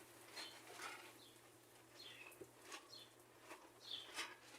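Faint bird chirps, short falling notes repeated about once a second, over quiet background hum, with a few soft clicks.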